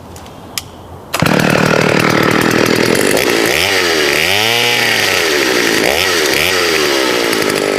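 Partner S55 two-stroke chainsaw at high revs, coming in abruptly about a second in; in the middle its pitch rises and falls several times as it is throttled and loaded, cutting a small branch.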